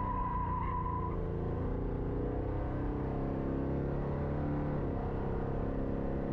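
Car engine running at a steady cruise, heard from inside the car, its note falling slightly near the end.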